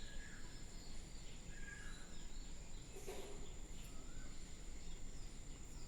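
Faint background room noise with a steady high-pitched whine and a few faint, short chirps.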